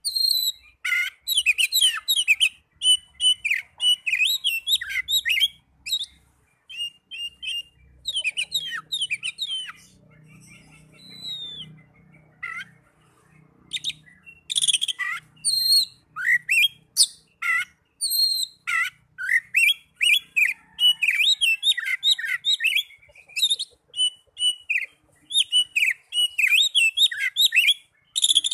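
Oriental magpie-robin singing: rapid, varied whistled phrases mixed with harsh scratchy notes, broken by short pauses, with a quieter stretch about ten seconds in.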